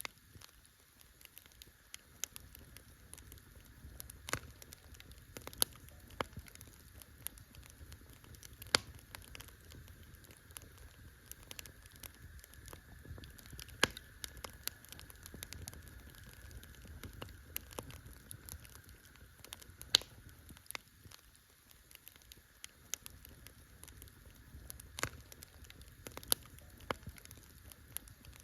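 Wood campfire crackling: irregular sharp pops and snaps over a low steady rush of flame, with a few louder pops scattered through.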